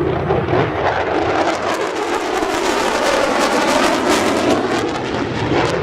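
F-22 Raptor's twin Pratt & Whitney F119 turbofans passing in a loud jet roar with a ragged crackle, strongest through the middle of the stretch.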